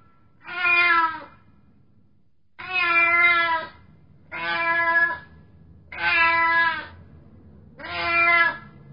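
A cat meowing five times, each meow about a second long with short pauses between.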